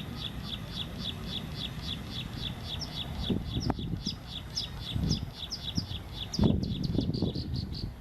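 A small bird chirping rapidly, about five short high chirps a second, over low rumbling noise with a few dull thumps.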